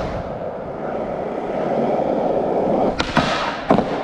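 Skateboard wheels rolling steadily and building in level, then two sharp clacks about three seconds in, well under a second apart: the board popping into and coming down from an attempted crooked grind.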